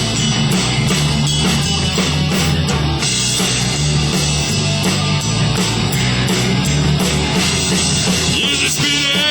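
Christian rock band playing an instrumental break: drum kit, bass and electric guitar, with a wavering high line coming in near the end.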